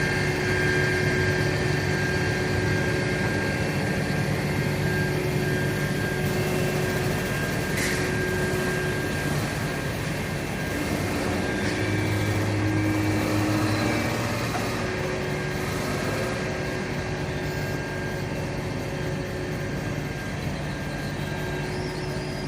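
Fire truck engine running steadily, with a sharp click about 8 seconds in.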